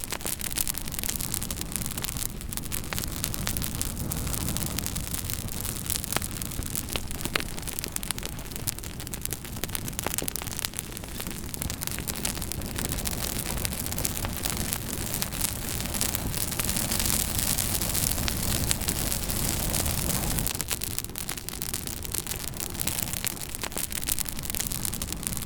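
Campfire burning with frequent sharp crackles and pops over a steady low rushing noise that swells and eases in the middle.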